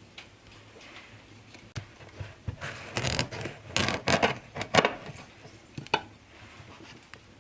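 A run of rough scraping or rubbing strokes, bunched together in the middle, with a couple of single sharp knocks before and after.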